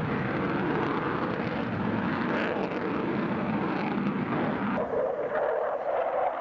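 Aircraft engines passing in a flyby: a continuous rushing roar that shifts higher and thinner about five seconds in.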